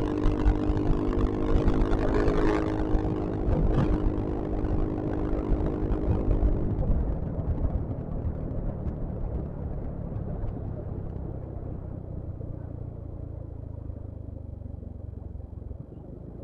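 Onboard sound of a Yamaha XMAX 250 scooter's single-cylinder engine under way, with low wind and road rumble. The engine note holds steady for about seven seconds, then fades and the sound grows duller and quieter as the ride slows.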